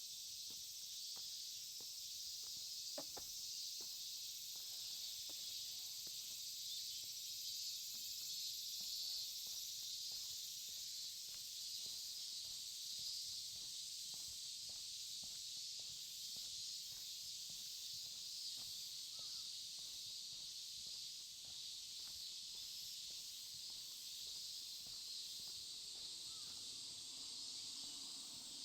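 A steady, high-pitched insect chorus, with faint, regular footsteps beneath it.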